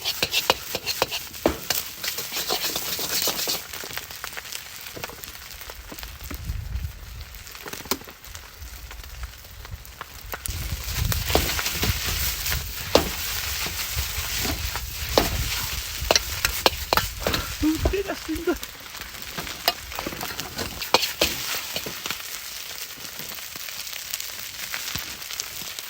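Fried rice sizzling as it is stir-fried in a hot pan, with frequent sharp clicks and scrapes from the spatula against the metal.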